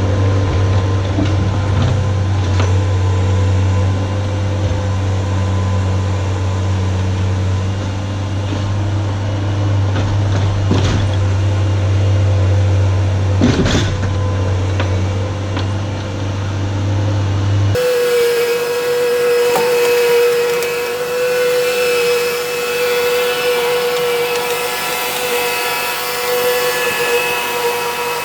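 Skid steer engine running steadily with a deep hum. About two-thirds of the way in, an abrupt cut switches to a different steady machine sound with a higher-pitched whine.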